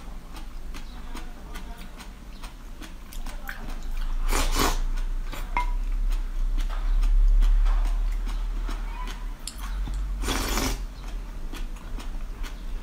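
Close-miked chewing of a mouthful of iced basil seeds: a steady run of small crackling clicks, with two brief louder rushes of noise about four and ten seconds in.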